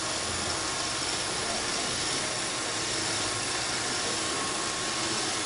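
Roomba 531 robot vacuum running: a steady motor and brush noise with a faint high whine.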